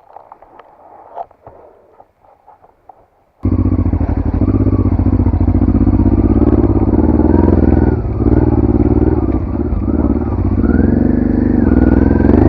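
Faint clicks and scrapes, then a dual-sport motorcycle engine cuts in loud about three and a half seconds in. It keeps running, its pitch rising and falling a little with the throttle.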